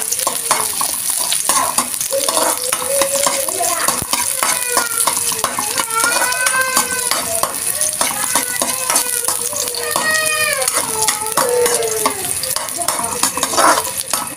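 Sliced onions sizzling in hot oil in an aluminium wok while a metal spatula stirs and scrapes them against the pan, the onions just turning brown. High-pitched voices carry in the background.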